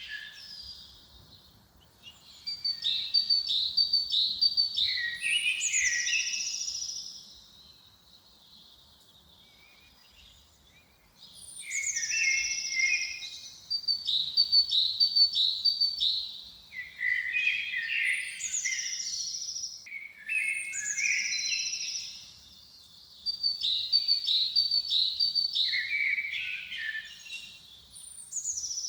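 A bird singing in repeated phrases of quick high chirps and trills, each phrase lasting a few seconds, with pauses between them.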